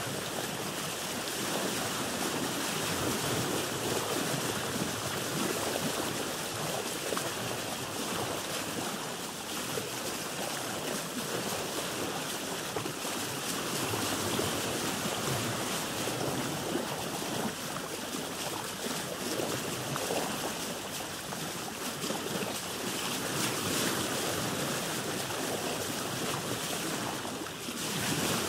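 Ocean waves and sea water heard from aboard a boat: a steady wash of water noise that swells and eases gently.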